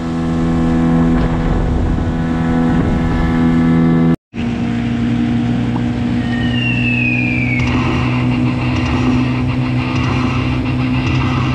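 Gladiator 9.9 hp outboard motor running steadily at speed. The sound cuts out for an instant about four seconds in, then the motor carries on at a slightly different pitch, with a short falling whine a couple of seconds later.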